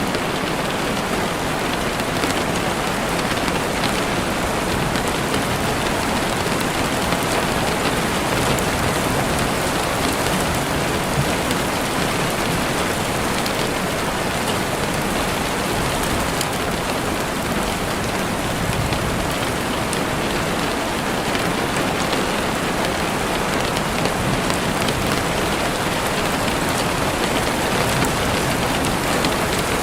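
Heavy rain falling steadily against a window, a dense even hiss with faint scattered drop ticks.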